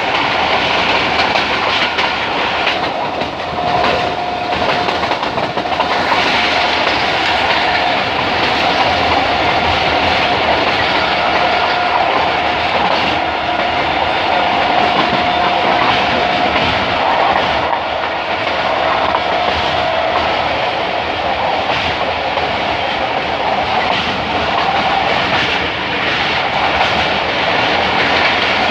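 Passenger train rolling slowly through a station, its wheels clattering steadily over the rail joints. A thin, steady high whine comes and goes through the middle.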